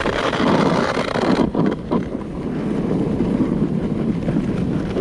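Wind rushing over the microphone and the sled hissing across the snow as it is towed at speed behind a truck. The rush is loudest in the first second and a half, then settles to a steady rumble.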